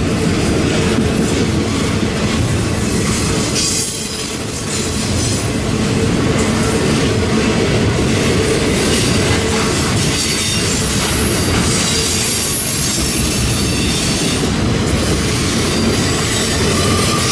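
Multilevel auto rack freight cars rolling past close by: a steady loud rumble of steel wheels on rail, with a few sharp clanks here and there.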